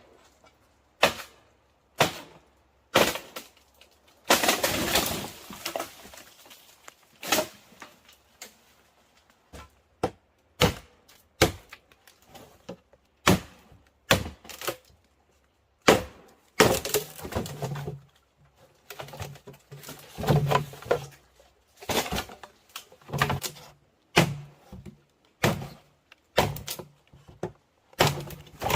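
Irregular sharp knocks and cracks, with a longer rustling stretch about four seconds in. From about sixteen seconds in, a low repeated cooing of a dove sounds between the knocks.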